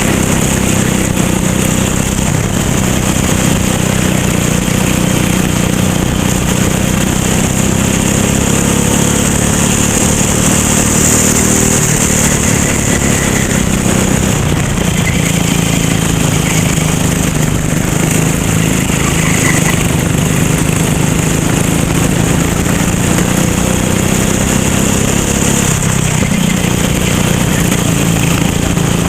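Racing kart engine running hard and continuously, its pitch rising and falling a little as the kart goes round the track.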